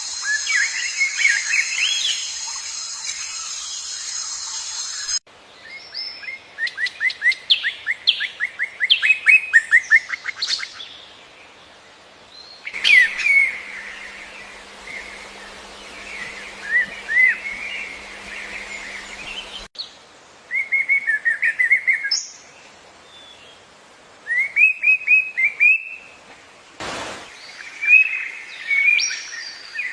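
Small birds chirping and calling, with fast trills of repeated short notes, heard in several spliced clips that cut in and out abruptly. A steady high hiss runs under the first few seconds.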